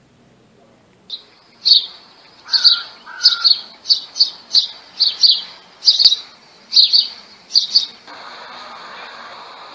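A small bird chirping over and over: about a dozen short, high chirps in quick succession, loud and close. A steady hiss takes over near the end.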